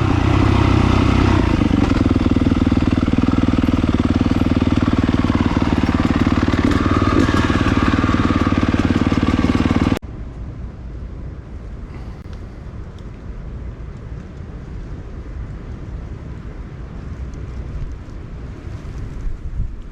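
A 2022 Yamaha YZ250FX's 250cc four-stroke single-cylinder engine running steadily on the trail, then cut off abruptly about halfway through, giving way to a much quieter low rumble.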